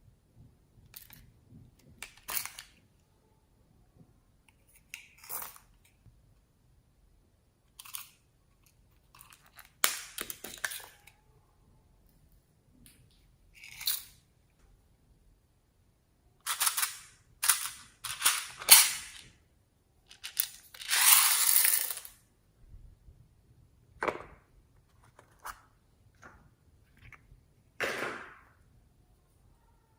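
Slime being worked and squeezed by hand, giving irregular sharp pops and squelchy crackles, with one longer crackling stretch a little past twenty seconds.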